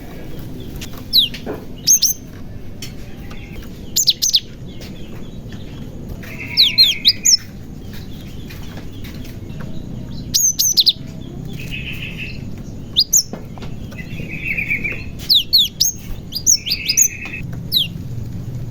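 Cinereous tit (glatik batu) calling repeatedly: sharp, high down-slurred whistles in twos and threes every second or two, mixed with short buzzy churrs.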